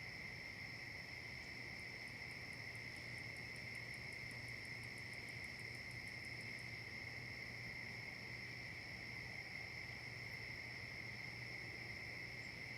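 Steady chorus of crickets and other insects, a constant high trill that does not vary. From about two seconds in until about seven seconds, a faint, fast, very high ticking of about five a second joins it.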